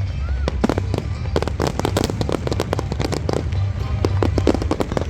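Fireworks display: a rapid string of sharp cracks and bangs from bursting shells, densest about a second and a half in and again toward the end, over a steady low rumble.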